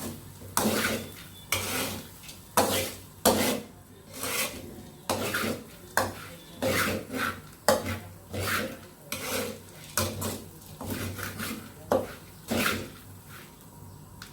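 A utensil scraping and stirring in a cooking pot: a run of irregular strokes, roughly one or two a second, that stops near the end.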